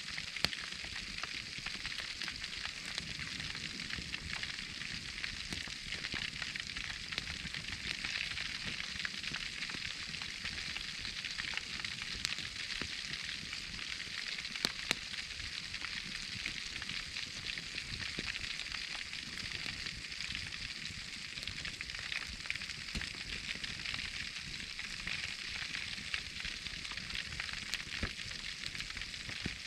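Foil-wrapped whole pork belly sizzling steadily in a wood fire, with fat spitting and the burning wood crackling in small clicks and a few sharper pops.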